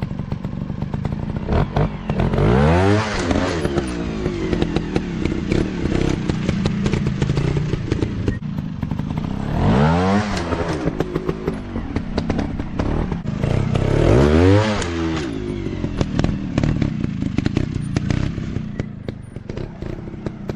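Dirt bike engine revved hard three times, each rev rising and then falling in pitch, over a rough running note with many sharp clicks and clatter throughout.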